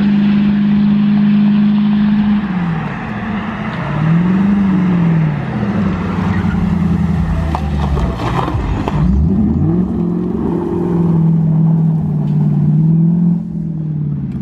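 Dodge Challenger R/T's HEMI V8 running loud with its mufflers cut off, straight-piped. The engine note holds steady, swells and falls back a couple of times, drops low about nine seconds in and climbs again.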